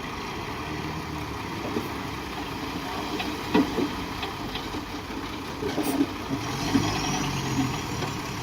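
Heavy diesel construction machinery running steadily at low revs, with a few short clanks about halfway through.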